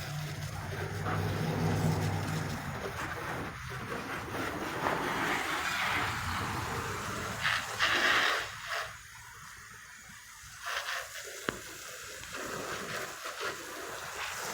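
Water spraying from a hose onto a car, a hissing rush with a few louder bursts, easing off for a couple of seconds past the middle.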